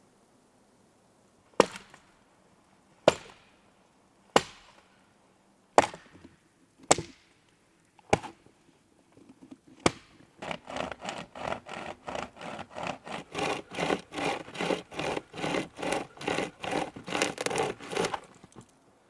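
An axe chopping dry wood, seven sharp separate blows, followed by a saw cutting through the wood in a quick steady rhythm of about four strokes a second that stops near the end.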